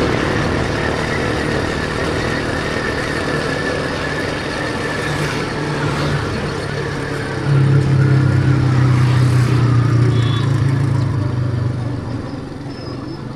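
Motorcycle engine running on the move, under road and wind noise. A louder, deeper engine drone sets in a little past halfway and fades near the end.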